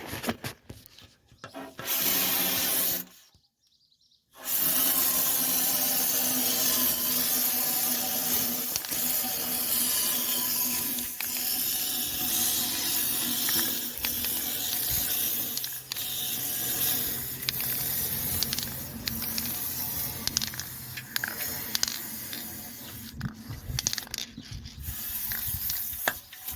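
Aerosol can of anti-corrosive cavity coating spraying through an extension tube into a hollow panel: a short burst of hiss, a brief pause, then a long steady hiss that dies away near the end.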